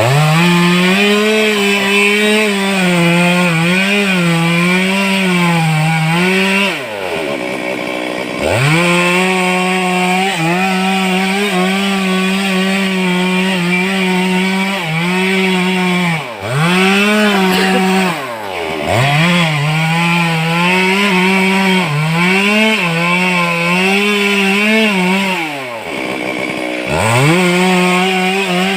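Stihl two-stroke chainsaw at full throttle cutting through wood, its pitch sagging and recovering as the chain bites. Four times the throttle is let off and the engine drops briefly to idle before revving back up for the next cut.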